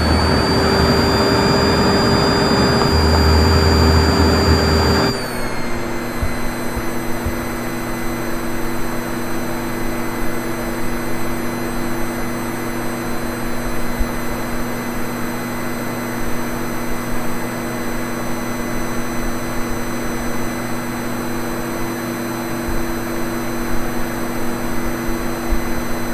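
Vacuum cleaner motor running steadily with a whine. About five seconds in, its pitch drops and it gets quieter, then it runs on evenly.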